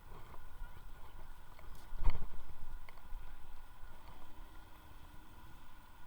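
Wind buffeting the microphone on a moving electric unicycle, with a strong gust about two seconds in. A faint steady high hum sits underneath.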